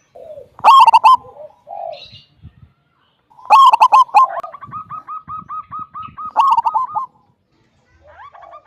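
Zebra dove (local perkutut) cooing: loud coo phrases about a second in and again at three and a half seconds, each followed by a rapid string of short repeated notes at one even pitch lasting about three seconds. The song pauses briefly and starts again near the end.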